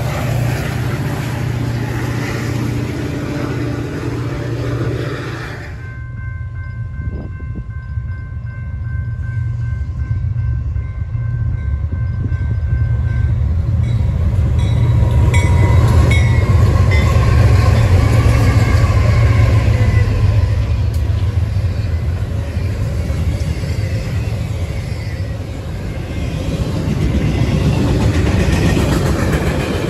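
A Metra commuter train running past with a steady rumble, then, about six seconds in, a faint steady tone. A BNSF freight train's diesel locomotives then approach and pass, their deep engine rumble loudest around the middle, followed by the rumble and clatter of double-stack intermodal cars rolling by.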